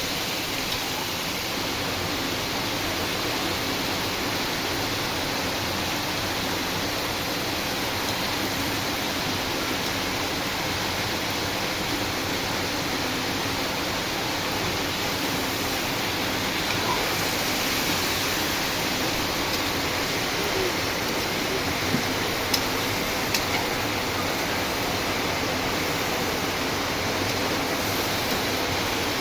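Steady rain falling, an even hiss of drops, with a few sharper ticks of single drops a little past two-thirds of the way through.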